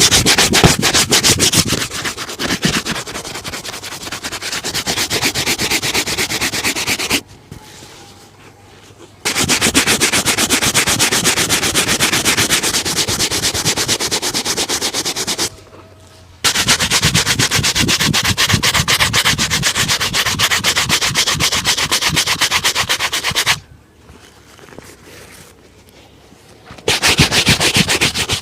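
Rapid back-and-forth brushing of a leather shoe during a shoe shine, in quick even strokes. The brushing comes in four spells, stopping for about two seconds a third of the way in, briefly just past halfway, and for about three seconds near the end.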